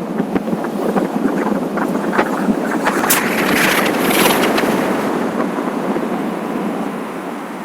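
Wind rushing and buffeting over the microphone of a riding motorcycle, mixed with road noise and full of small crackles. It swells to a louder, hissier rush about three to four seconds in, then eases off slowly.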